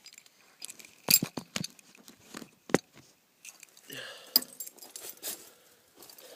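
A run of sharp clicks and knocks with keys jangling, the loudest knocks about a second in, near three seconds and past four seconds.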